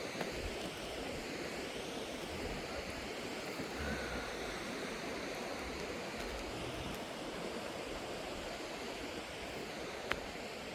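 Steady rushing of water from a mountain waterfall and creek, an even noise without rhythm, with a single faint click near the end.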